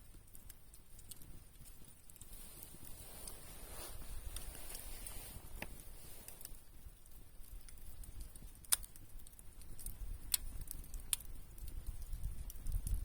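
Wood campfire burning, with a few sharp crackles and pops from the burning wood over a soft steady background, and a low rumble rising near the end.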